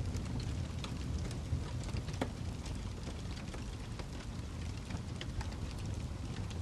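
Wood fire burning in a fireplace: a steady low rumble with scattered sharp crackles and pops, one louder pop about two seconds in.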